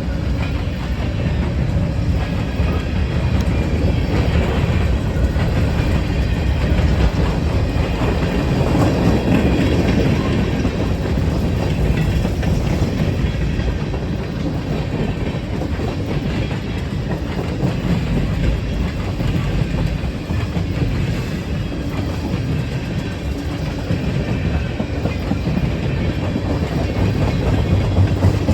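Freight train rolling past, its wheels clattering steadily over the rails with a continuous rumble.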